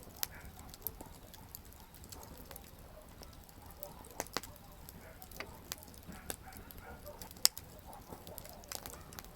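Wood campfire crackling: irregular sharp pops and snaps of burning firewood over a low steady hiss, with one louder pop about seven and a half seconds in.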